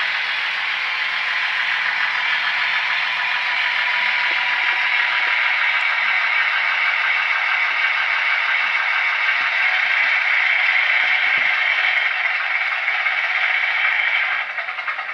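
Model train running on the layout's track: a steady rattling of wheels and motor on the rails, which near the end breaks into a fast run of clicks and fades.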